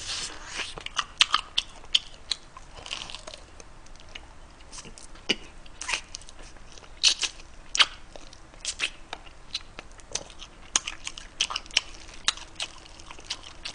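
Close-miked chewing and biting of spicy braised pig's trotters (bul-jokbal), with many short sharp mouth clicks at irregular intervals.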